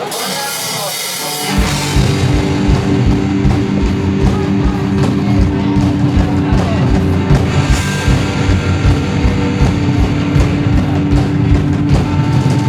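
Live punk rock band starting a song: a short guitar lead-in, then distorted electric guitar, bass and a drum kit come in together about a second and a half in and play on a steady beat.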